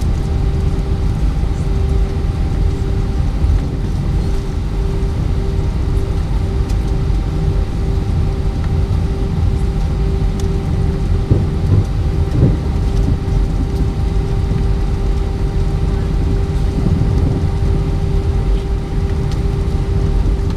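Airbus A320-232's IAE V2500 engines heard inside the cabin: a steady deep rumble with a constant hum riding on top.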